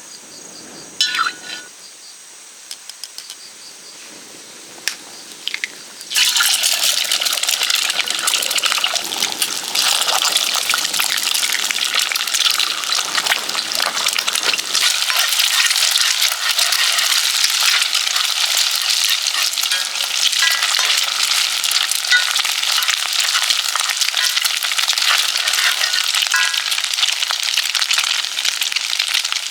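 Food going into hot oil in a frying pan, setting off a loud, steady sizzle that starts suddenly about six seconds in. Before it there are only a few light clicks.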